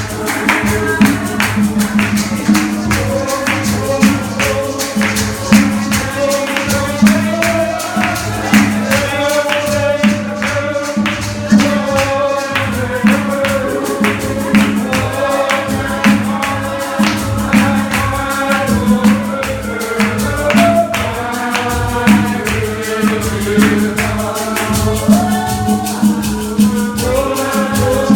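Lively church praise music: voices singing over instruments, with a tambourine keeping a steady beat.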